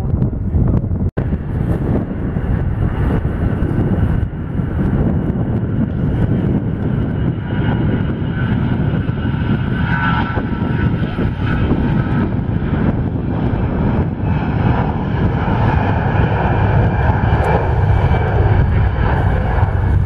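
Jet airliner engines running loud and steady: a deep rumble with a whine of several steady tones over it, growing a little louder toward the end. There is a brief break in the sound about a second in.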